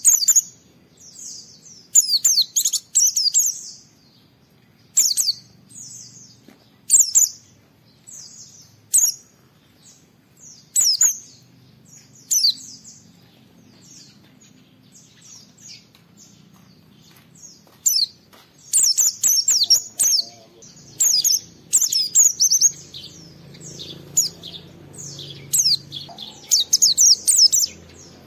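A white-eye (pleci) singing in full song: short bursts of high, rapid chirping phrases about every two seconds, a lull of a few seconds, then a longer, denser run of song in the last third.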